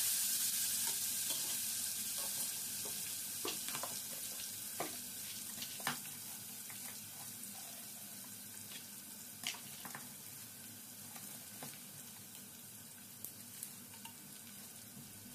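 Ginger-garlic paste and whole spices sizzling in hot oil in an aluminium pressure cooker, stirred with a spatula at first. The sizzle slowly dies down, with occasional small pops.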